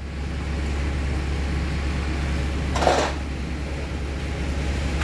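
A steady low mechanical hum, with a short clatter about three seconds in.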